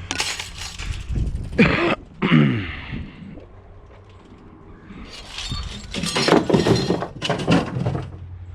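Scrap metal and junk clattering and clanking as it is handled and pulled apart. There are two short falling squeaks about two seconds in, and a burst of louder clattering near the end.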